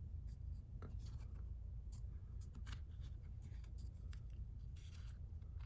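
Faint scattered clicks and rubbing as a sealing ring is worked onto a transmission shaft with a ring installer tool, over a steady low hum.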